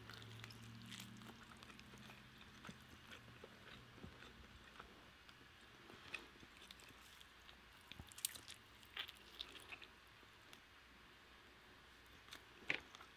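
Quiet close-up eating sounds of a person chewing and biting pieces of roast chicken held in the hands: soft wet mouth clicks and smacks scattered throughout, with a sharper click near the end.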